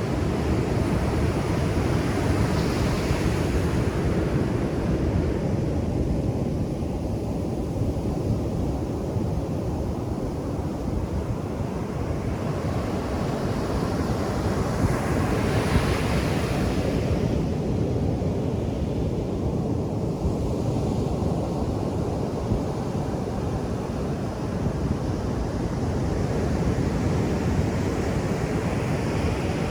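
Ocean surf on a beach: a continuous low wash of water, with waves breaking and swelling louder three times, near the start, about halfway, and near the end.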